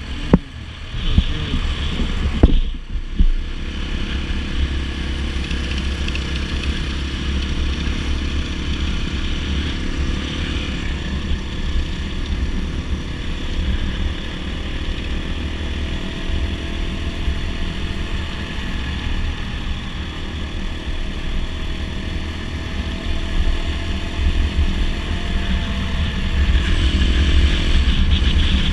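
Dirt bike engine running steadily while riding, with heavy low wind rumble on the microphone. A few sharp knocks come in the first three seconds.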